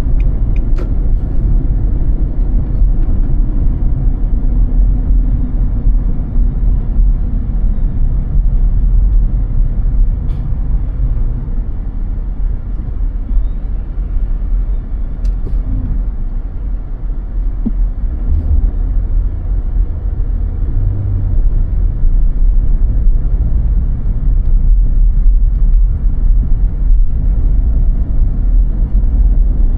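Car driving on snowy roads: steady low road and engine rumble, heard from inside the car, easing a little for a few seconds midway and then building again.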